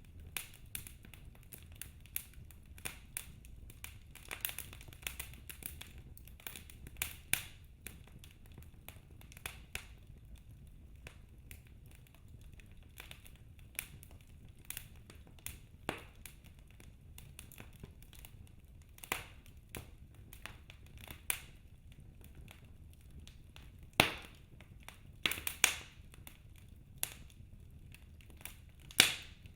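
Wood fire in a fireplace crackling, with irregular sharp pops and snaps over a low steady rumble; a few louder pops come in the last third.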